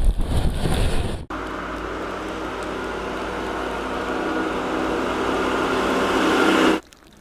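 Wind buffeting the microphone for about a second, then, after an abrupt cut, a motor vehicle's engine running steadily and growing slowly louder, until it cuts off near the end.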